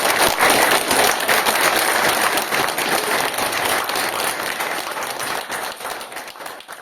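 Audience applauding, dense clapping that gradually dies away toward the end.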